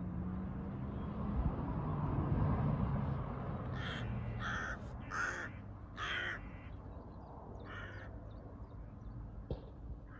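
A crow cawing, four harsh caws in quick succession about halfway through and one more a couple of seconds later, over a low rumbling background noise that is loudest in the first few seconds.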